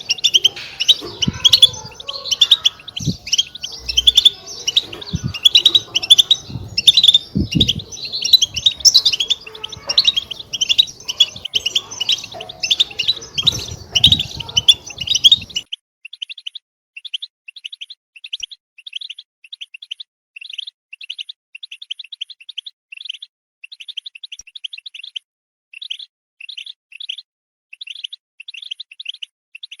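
European goldfinches twittering and chattering. For the first half it is a dense run of overlapping chirps with some low background rumble. About halfway it cuts suddenly to a cleaner recording of short runs of quick chirps with silence between them.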